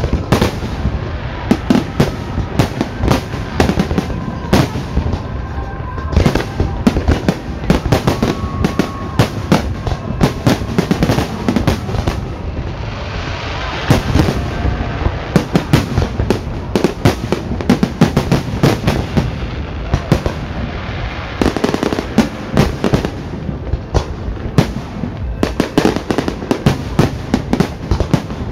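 Fireworks display: a dense, continuous run of loud bangs and pops, many shells bursting in quick succession.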